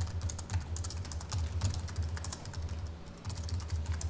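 Fast typing on a computer keyboard: a dense run of key clicks with a brief pause a little after three seconds.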